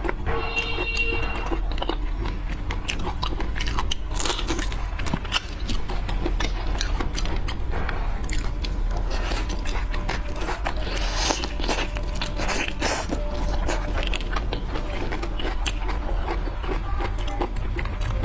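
Close-miked eating of seafood: steady biting and chewing with wet crackling and crunchy clicks, over a low steady hum.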